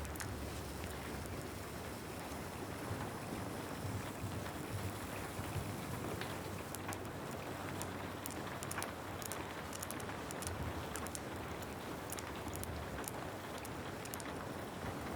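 Steady rain, with scattered small sharp ticks through it.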